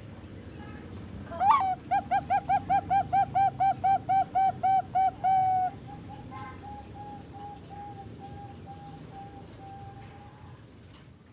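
Young zebra dove (Bangkok perkutut strain), about three and a half months old, cooing: a rising opening note, then a quick run of about fifteen short coos at roughly four a second, ending on a longer held note. A fainter, slower string of coos at the same pitch follows.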